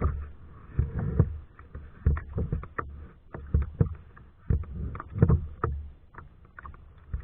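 Kayak being paddled: rhythmic paddle strokes through the water, about one a second, with splashing, drips and sharp knocks from the paddle and hull.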